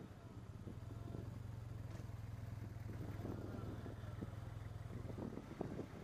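Motorcycle engine running at low speed in slow city traffic, a steady low hum that eases off about five seconds in. Near the end, short gusts of wind noise on the microphone start.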